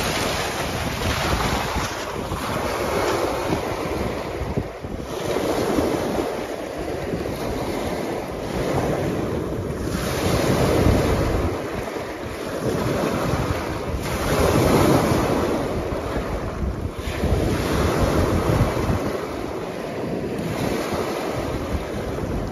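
Lake waves breaking on a rocky shoreline and washing back out over the rocks, in a continuous surging hiss that swells and ebbs every few seconds, with wind rumbling on the microphone.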